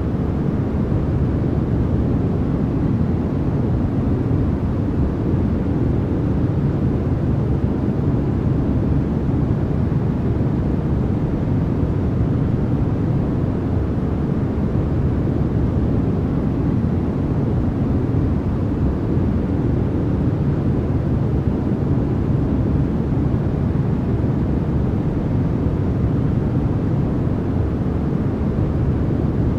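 Steady, unbroken noise of the kind played for sleep, sold here as white noise, but deep and rumbling, with most of its weight in the low end and little hiss on top.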